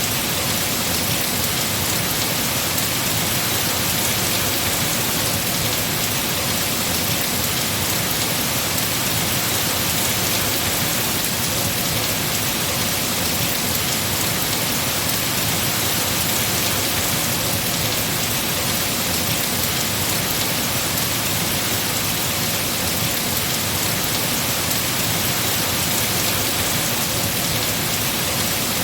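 Heavy rain falling on trees and foliage, a dense steady hiss of drops.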